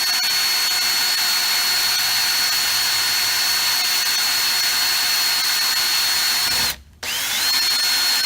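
Power drill boring a pilot hole into a metal bar: a steady high-pitched motor whine. It stops briefly near the end, then spins straight back up.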